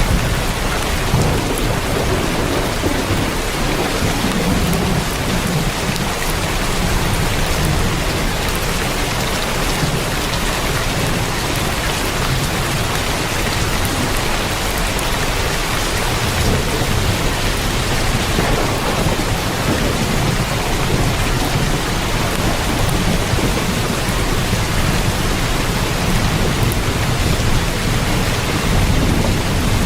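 Heavy rain drumming steadily on a tin roof, with a low rumble underneath.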